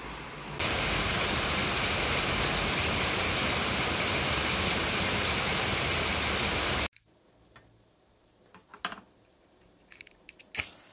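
Steady rain falling outdoors, an even hiss that cuts off abruptly about seven seconds in. Then a few light clicks and knocks as a slatted wooden lid is lifted off a glass candle jar.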